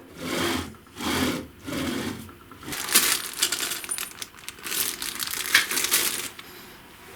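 Three rhythmic rasping strokes, like hand filing or rubbing on metal. About two and a half seconds in, several seconds of sharp metallic clinking and rattling follow, which stop about a second before the end.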